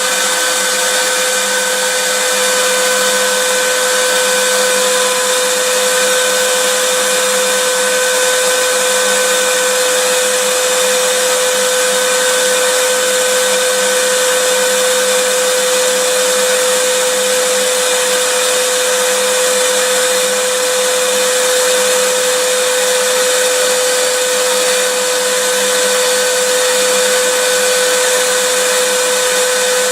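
Vacuum cleaner running steadily: a constant rush of air with a steady motor whine, holding the same speed throughout.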